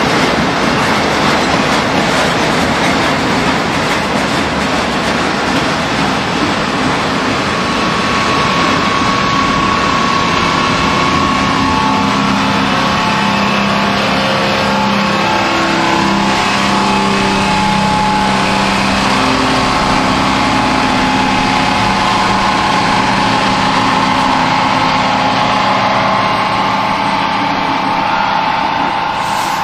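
Loaded ribbon-rail train cars rolling past close by: a loud, steady rush of steel wheels on the rails. About eight seconds in, a steady droning tone joins the rolling noise.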